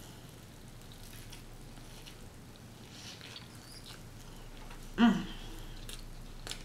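A person chewing a large mouthful of burger: faint, soft, wet mouth clicks. About five seconds in comes one short, loud vocal sound through the full mouth.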